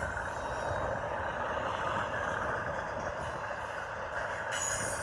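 Union Pacific intermodal train cars rolling past, a steady noise of steel wheels on the rails.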